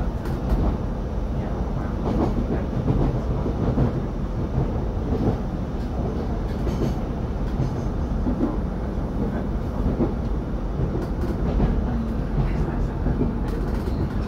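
Steady running noise of a moving electric passenger train heard from inside the carriage: wheels rolling on the rails and the body of the car humming, with a few faint clicks.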